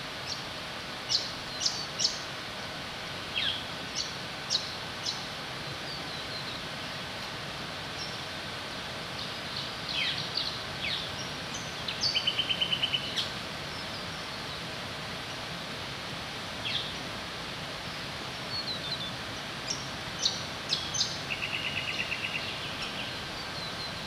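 Wild birds calling: short, sharp high chirps scattered throughout, and a rapid trill about halfway through and again near the end, over a steady outdoor background hiss.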